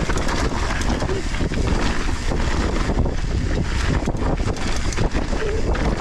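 Wind rushing over an action camera's microphone during a fast downhill mountain-bike descent, with the tyres running over loose volcanic soil and the bike rattling over bumps in many short knocks.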